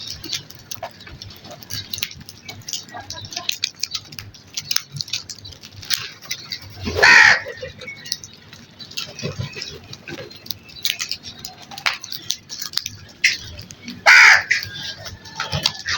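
Crows cawing: two loud, harsh caws about seven seconds apart, over a steady scatter of short ticks and faint chirps.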